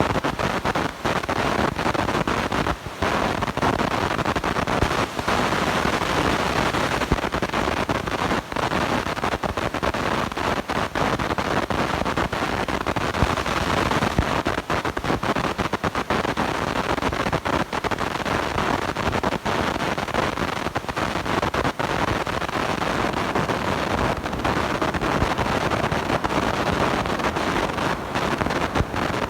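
Blown-out microphone giving a loud, steady crackling distortion noise, broken by brief dropouts.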